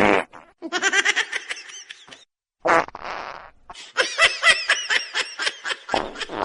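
A short buzzing, fart-like noise at the start and again about three seconds in, each followed by a person laughing in quick rhythmic bursts.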